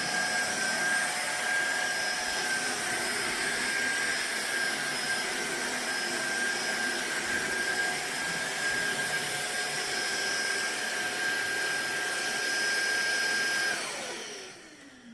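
Cordless stick vacuum running with a steady high-pitched motor whine and rushing air, switched off near the end, its whine falling in pitch as the motor spins down.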